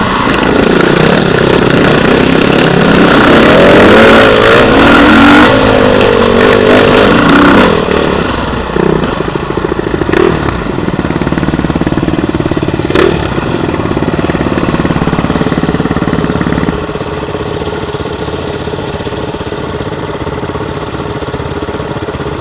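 Beta RR 450 enduro motorcycle's four-stroke single-cylinder engine revving up and down under throttle for the first several seconds, then dropping back to a quieter, steadier run near idle, with two sharp clacks in the middle.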